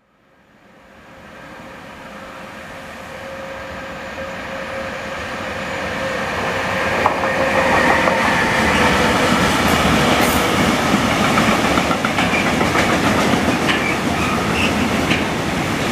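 A train approaching and passing close by, its wheels clacking over the rail joints. It grows louder over the first several seconds, then runs steadily.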